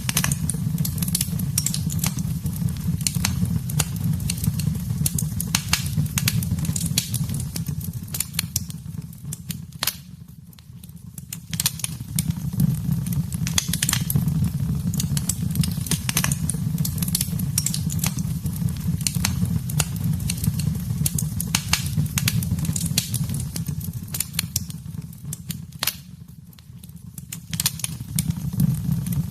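Wood fire burning in a fireplace: dense, irregular crackling and popping over a steady low rumble of the flames. The sound dips away briefly twice, about a third of the way in and again near the end.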